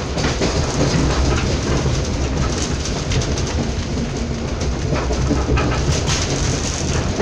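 Passenger train running at speed, heard from inside the carriage: a steady rumble and rushing of wheels on rails, with a few faint clicks.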